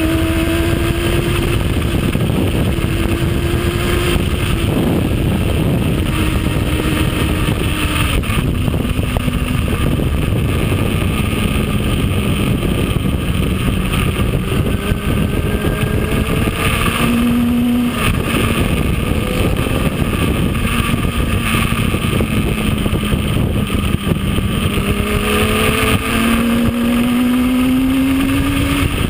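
Yamaha R1 sport bike's inline-four engine running at speed on the road, heard from on board over heavy wind rush. Its note climbs slowly, drops a couple of times early on as the revs fall, holds lower through the middle and rises steadily near the end as the bike accelerates.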